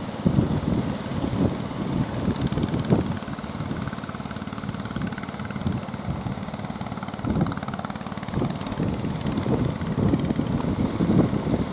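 Fishing boat engine running steadily, with wind buffeting the microphone in irregular low gusts.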